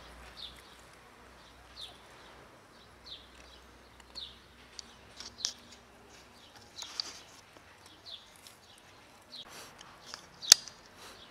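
A small bird repeating a short chirp about once a second, over a low outdoor hush. A single sharp click stands out near the end.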